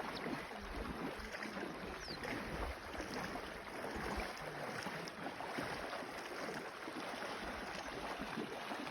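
River water rushing and splashing steadily, a dense crackling hiss with uneven low rumbles underneath.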